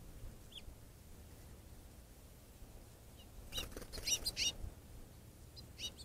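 Small bird chirping: one faint chirp about half a second in, then a quick run of several short downward chirps a little past halfway, mixed with a flutter of wings, and two more chirps near the end.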